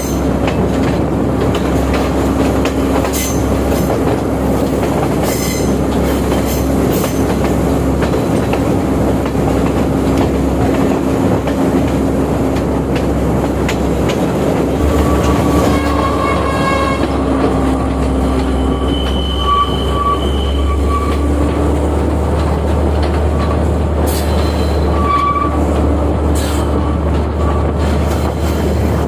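Class S14A diesel multiple unit running along the line: a steady, loud rumble of engine and rail noise, with brief high-pitched squeals from about the middle onward.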